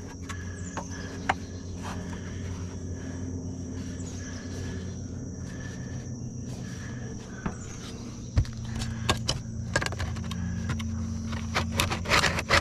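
Scattered knocks and light scrapes of hands-on roofing work on flashing, turning into a quick run of scraping and tapping near the end, over a steady low hum and a steady high tone.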